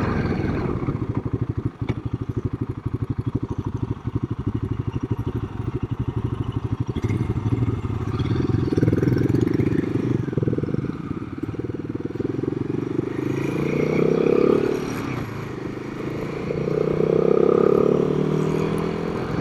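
Royal Enfield Himalayan's single-cylinder engine running under way, with a steady, even firing pulse. After about eight seconds the engine note rises and falls a few times as the bike speeds up and eases off.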